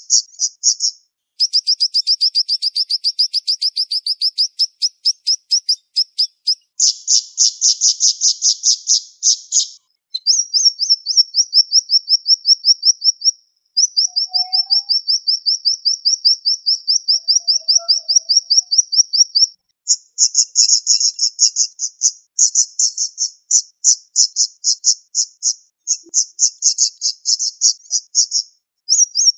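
A siri-siri bird singing in fast, tight trills of rapidly repeated high, sharp notes. The runs last a few seconds each, with brief pauses between them, and some rise slightly in pitch.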